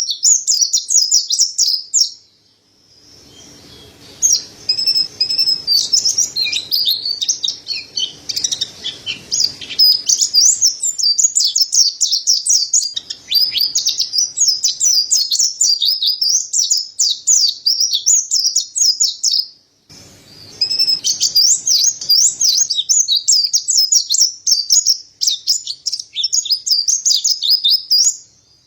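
Mountain white-eye (pleci dada putih, Zosterops montanus) singing a fast, continuous, high-pitched twittering song, pausing briefly about two seconds in and again about twenty seconds in.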